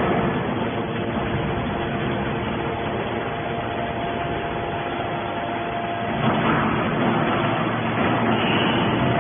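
Scrap metal baler running: a steady, dense machine noise with a constant hum, shifting in tone about six seconds in.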